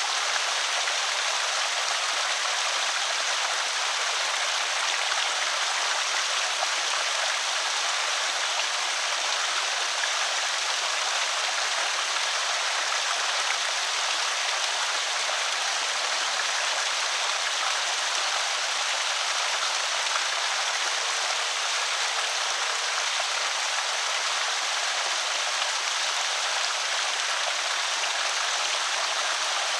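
Water pouring over a small creek spillway: a steady, even splashing and trickling rush with no change in strength.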